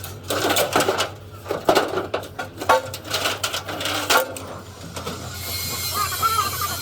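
Irregular knocks and clatter, typical of work on metal, over a steady low hum. About five seconds in they give way to a steady hiss.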